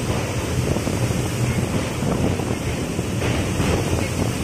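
Steady rumble of a moving passenger train, with wind buffeting the microphone at the open window.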